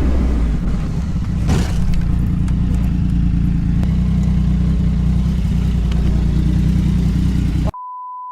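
A running road vehicle: a loud, steady low engine-and-road rumble, with a brief loud rush of noise about a second and a half in. Near the end the sound cuts out and a steady bleep tone takes its place.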